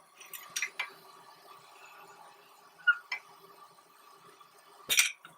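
Glass tubing on a glass lathe clinking and clicking: a few light clicks in the first second, two more around three seconds in, and one sharp, louder click about five seconds in. A faint steady hum runs underneath.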